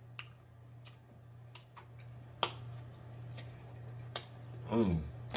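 Close-miked mouth sounds of chewing crunchy fried catfish: scattered crisp clicks and smacks, the sharpest about halfway through, and a short falling hummed 'mmm' near the end. A steady low hum runs underneath.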